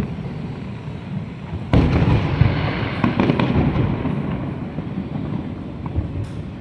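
Fireworks display: a sharp loud burst about two seconds in, then crackling and rumbling that slowly fade, over a steady background of other shells going off.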